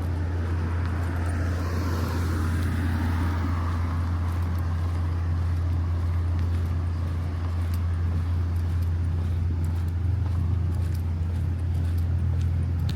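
A motor's steady low hum throughout, with a softer rushing sound that swells and fades a second or so in.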